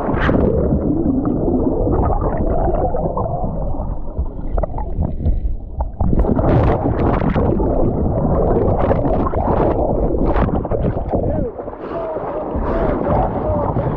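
Rushing whitewater heard muffled and close through a GoPro's waterproof housing, the camera in and around the water, with a few sharp splashes.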